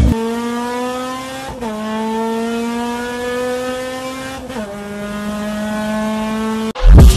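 A car engine accelerating hard through the gears: its pitch climbs slowly, then drops sharply at an upshift about a second and a half in and again about four and a half seconds in. It cuts off suddenly near the end.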